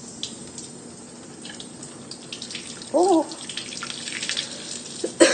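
Tap water running steadily into a sink and splashing, with a short "oh" about three seconds in and a sharp knock near the end.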